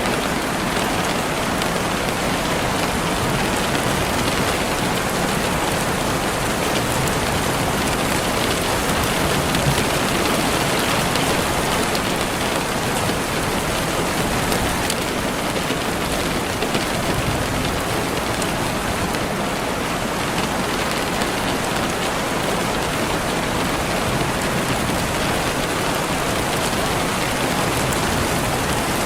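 Steady, even rainfall pattering on a surface.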